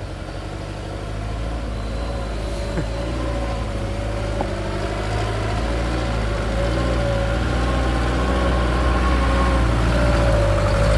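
Truck engine running steadily with a wavering whine over its hum, growing gradually louder as the truck draws near.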